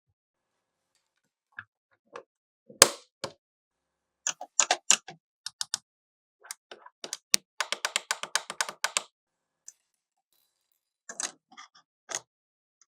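Small plastic clicks and taps on a toy cash register playset. There is a sharp knock about three seconds in and a quick run of clicking about halfway through.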